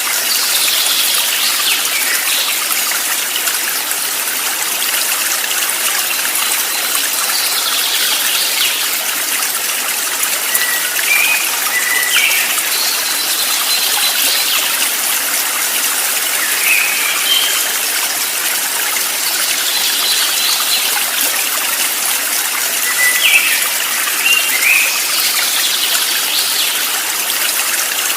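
Stream water running steadily, with short chirping and falling bird calls breaking in every few seconds.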